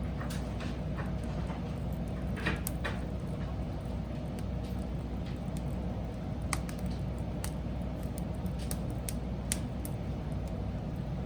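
Wood fire burning: a steady low rumble with irregular sharp crackles and pops from the burning wood, a few of them louder.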